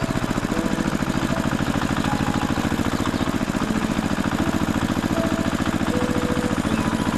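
Tractor engine running steadily at idle, a fast even chug with no change in speed.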